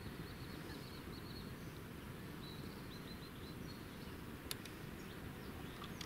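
Quiet outdoor ambience: a steady low hiss with faint, short, high chirps of small birds repeating through it, and a single faint click about four and a half seconds in.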